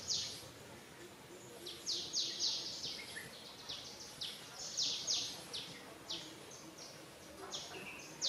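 A bird calling outdoors: quick runs of two to four short, high notes, repeated every second or two.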